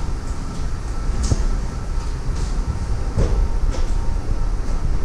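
Steady low rumble of a moving vehicle heard from inside, with a few short knocks and clacks along the way.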